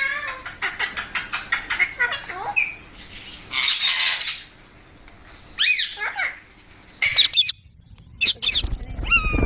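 Rose-ringed (Indian ringneck) parakeet calls: a fast run of short chirps for the first two seconds, a harsh rasping call about four seconds in, then several sharp screeches near the end.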